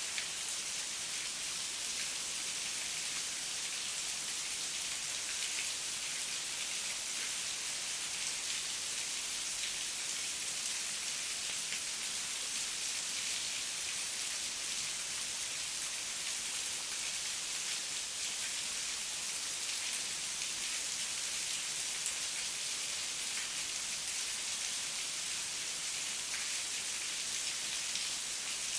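Heavy rain falling steadily, a dense even hiss with fine drop patter throughout.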